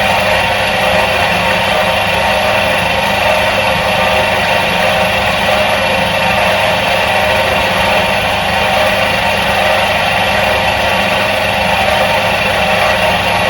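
Electric motor of a 1977 Soviet washing machine running steadily: an even hum with a whirring rush above it, unchanging in pitch and level.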